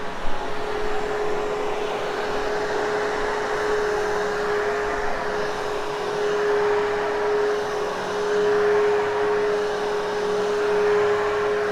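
Hoover Hushtone vacuum cleaner running steadily while pre-vacuuming a carpet: a constant motor whine over the rush of suction air, its loudness rising and falling slightly.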